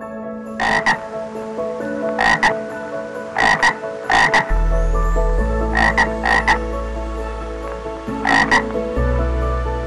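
Toad croaking: a series of short croaks about every second, often two in quick succession.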